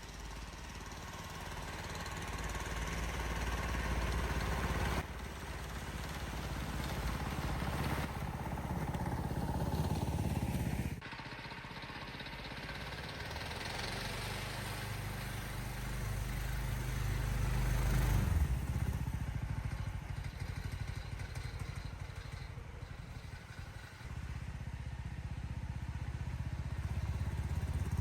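A small engine running steadily, its level and pitch shifting between several abruptly cut shots.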